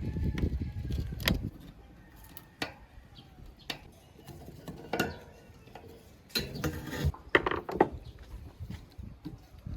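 Hand work on small metal parts: scattered sharp clicks and clinks, about half a dozen, with rubbing and handling noise in the first second and again around six to seven seconds in.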